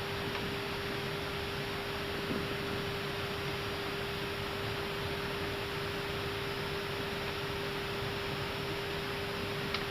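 Airbus A319 cockpit on final approach: a steady rush of airflow and ventilation noise with a constant electrical hum, and a faint click near the end.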